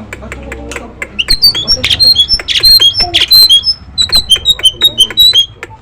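Nias hill myna calling: soft chattering and clicks, then from about a second in a rapid run of loud, short, high whistles and sharp clicks that drops away just before the end.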